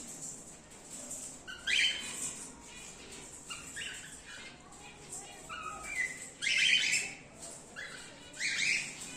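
Cockatiels calling in the colony: repeated short, rising chirping calls, coming in clusters, the loudest around two seconds in and again near the seven-second mark.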